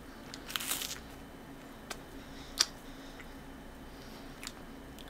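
Chewing a light, crisp chocolate-coated snack close to the microphone: a short crunch about half a second in, then a few sharp mouth clicks, the loudest about two and a half seconds in, over a faint steady hum.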